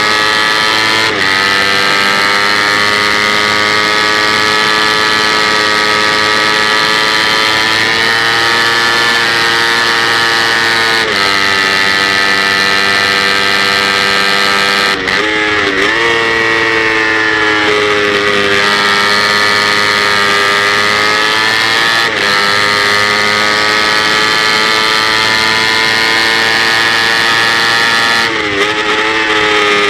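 Kawasaki Ninja 250 parallel-twin race bike engine running at high revs under load, with wind rush. The engine note drops briefly at several gear changes, and swings more sharply around the middle and near the end.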